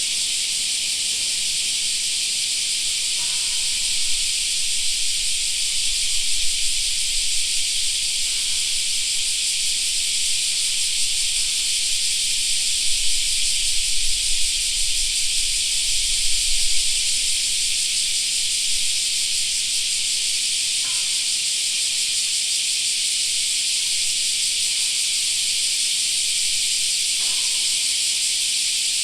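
A summer cicada chorus: a dense, steady, high-pitched shrill with no breaks. A low rumble swells and fades in the middle.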